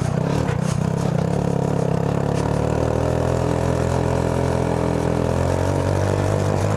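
Go-kart's small 150cc engine running steadily under way, its pitch easing down a little partway through and then holding. It runs cleanly without sputtering now that the intake snorkel is disconnected.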